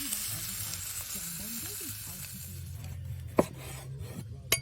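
Steak sizzling over a fireplace fire, the hiss dying away a little over halfway through. Two sharp clicks follow about a second apart.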